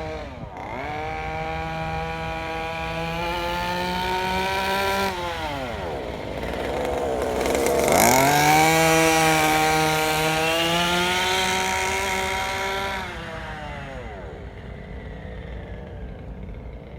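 Small 32cc two-stroke gasoline engine of a 1/5-scale RC truck with a side-exit exhaust pipe, buzzing as the throttle is opened, eased off about five seconds in, opened again to its loudest around eight seconds, then let back toward idle near the end. It is being run gently to break in the new engine.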